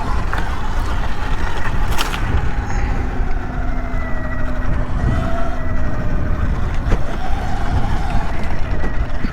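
Sur-Ron electric dirt bike ridden over rough, rocky ground, heard from a helmet-mounted mic: a dense rumble of wind and bumps with the motor's faint wavering whine. There are sharp knocks from the bike jolting over rocks, one about two seconds in and another near seven.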